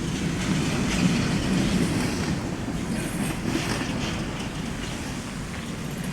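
Train on the BNSF line rolling past, a steady rumble of wheels on rail.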